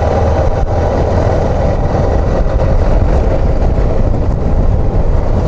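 Suzuki XF650 motorcycle's single-cylinder four-stroke engine running steadily under way.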